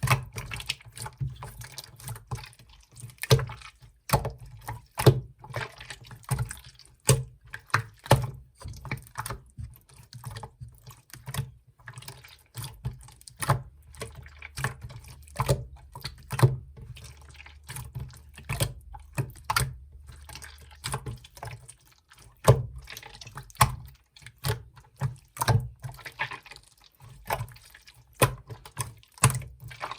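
Clear slime being played with by hand, squeezed and pressed, giving irregular clicks and pops a few times a second.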